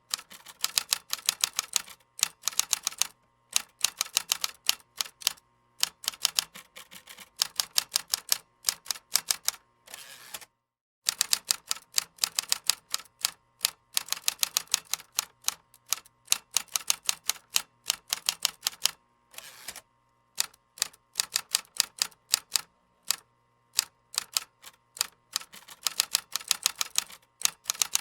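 Keyboard typing: quick runs of keystroke clicks broken by short pauses, with a brief dead stop about ten seconds in.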